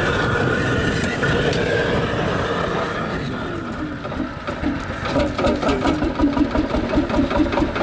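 HSCS G-35 Red Star single-cylinder two-stroke hot-bulb tractor engine running just after a hard start. It begins as a steady mixed noise, then about five seconds in settles into an even beat of about three strokes a second.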